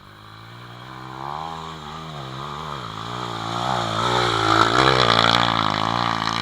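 Single-cylinder pit bike engine revving up and down through several throttle blips, getting steadily louder to a peak about three-quarters of the way through.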